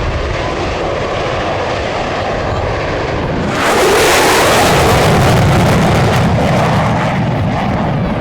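A fixed-wing aircraft flying past, with a steady engine noise that suddenly grows louder and more hissing about three and a half seconds in, then eases off near the end.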